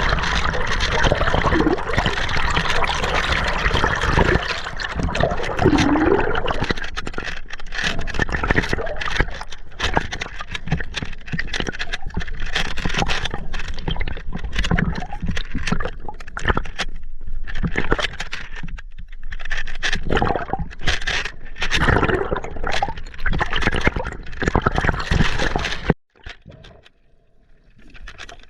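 River water splashing and gurgling close to a GoPro's microphone, with irregular scrapes and knocks; it cuts off suddenly near the end, leaving only faint water.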